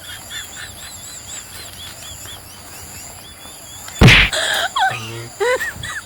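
A string of small, quick high chirps, then a sudden loud hit about four seconds in, followed by short squeaky sliding calls.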